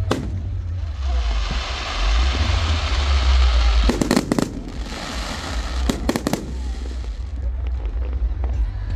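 Fireworks display: shells bursting with sharp bangs, one right at the start, a quick run of three just after four seconds in and another run around six seconds. Between the bangs is a dense crackling hiss from crackling stars.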